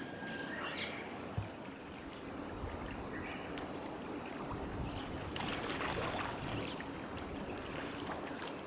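Riverside ambience: a steady wash of flowing-water noise with a few faint bird calls, including a brief high thin whistle about seven seconds in.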